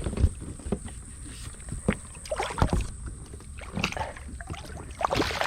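Irregular knocks and bumps on a kayak hull with short water splashes, as a hooked bass is fought from the kayak.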